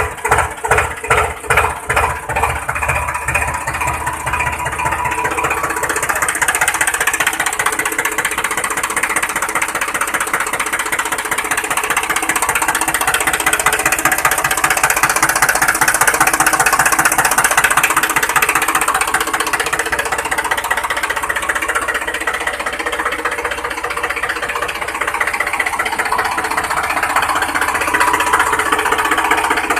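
Tractor engine running with a rapid chugging knock, the beats most distinct in the first few seconds, then settling into a steady dense run.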